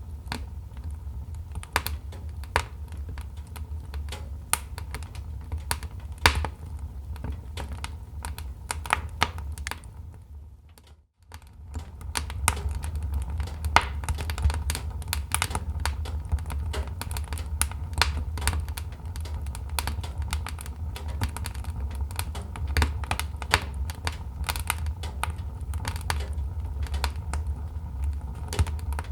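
Wood fire crackling, with dense irregular pops and snaps over a steady low rumble. It cuts out for about a second near the middle, then resumes.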